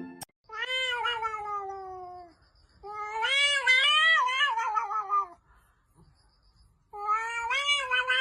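A cat meowing: three long, drawn-out calls, the first sliding down in pitch and the second wavering up and down.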